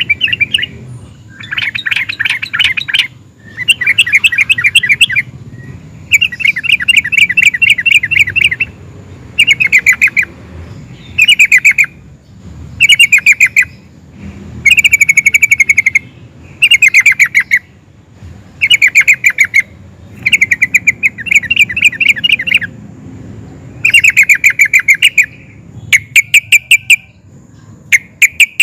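Yellow-vented bulbul (trucukan) singing loud, rapid chattering phrases of about one to two seconds each, repeated with short pauses between them.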